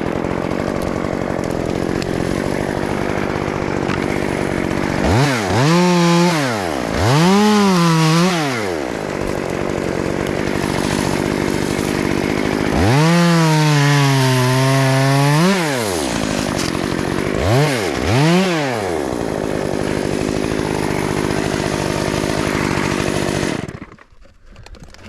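Two-stroke chainsaw idling and revved up and back down five times, the longest rev about three seconds, as branches are pruned. The engine stops about a second and a half before the end.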